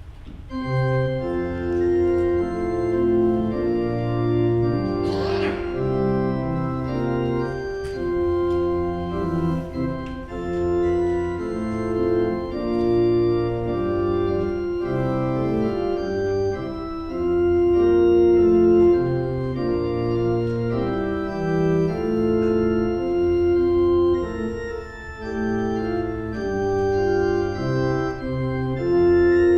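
Church organ playing the opening hymn tune in sustained, stepwise-changing chords.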